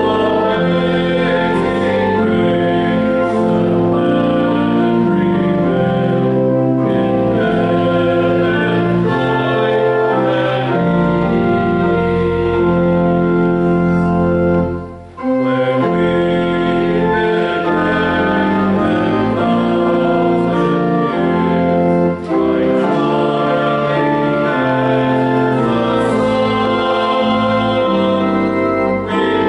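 Organ playing held chords in a slow, hymn-like progression, with a short break about halfway through.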